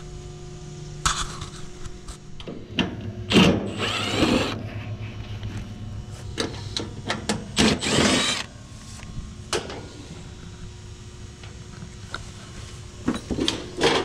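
A cordless drill/driver runs in two short bursts, each with a whine that glides in pitch, with clicks and knocks between them as the unit's panel is opened. A steady low hum runs underneath.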